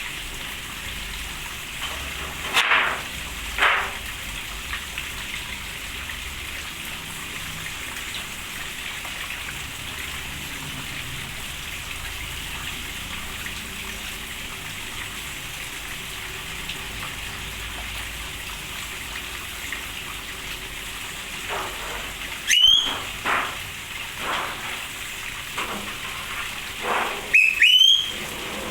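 Steady rain falling, with a few short bird calls: two about three seconds in, then a cluster in the last seven seconds, some sweeping sharply upward in pitch.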